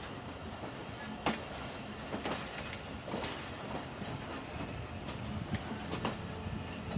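A moving train: a steady rolling rumble with irregular sharp clacks of the wheels over the rails.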